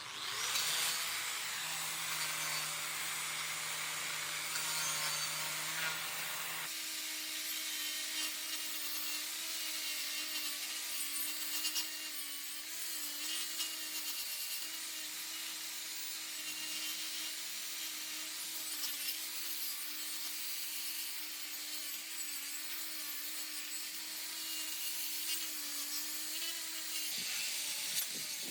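A power tool's motor running steadily at work, its pitch wavering slightly as the load changes, over a steady hiss; a lower hum underneath cuts off about six and a half seconds in.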